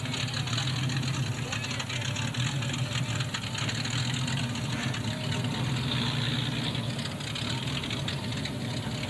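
Race car engines idling with a steady low drone.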